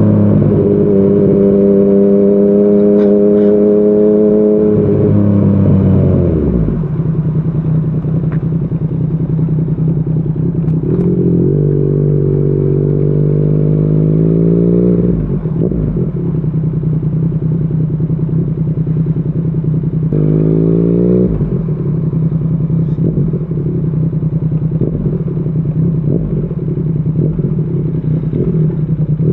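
Yamaha MT-09's inline three-cylinder engine through a Yoshimura R55 slip-on exhaust, under way. It holds steady revs, then drops off as the throttle closes about five seconds in. It pulls up in revs twice more, each time followed by a sharp drop, and otherwise runs at low revs.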